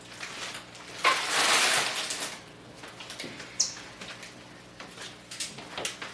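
Plastic chip bags crinkling loudly for about a second as they are set down on a table, followed by a few light knocks.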